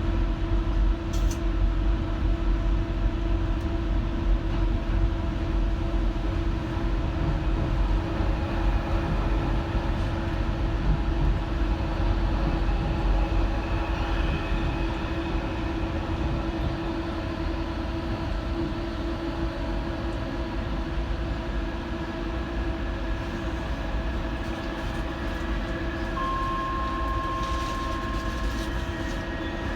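Docklands Light Railway train running, heard from inside the carriage: a steady low rumble from the wheels and track under a constant motor hum. A short high tone sounds once near the end.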